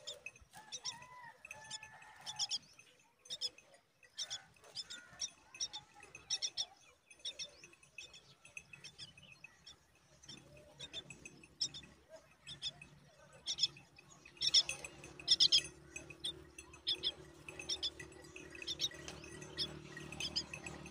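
Myna nestlings chirping: short, high chirps repeated in quick runs, loudest about two-thirds of the way through. A steady low hum joins in about halfway.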